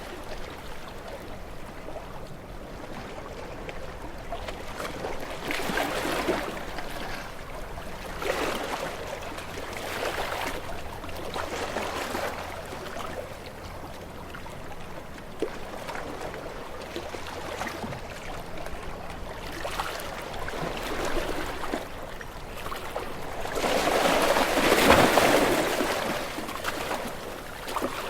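Small waves lapping and washing onto a shore, a soft wash every couple of seconds, with a larger wave surging in near the end.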